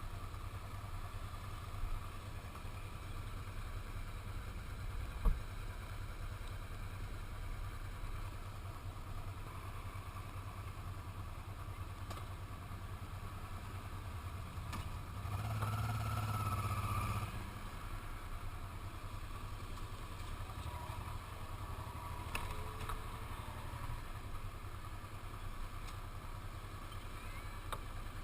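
Steady low rumble of a motorcycle ride through town streets: engine and wind noise, with a sharp click about five seconds in. A louder pitched engine sound swells for a couple of seconds past the middle, like a vehicle passing close.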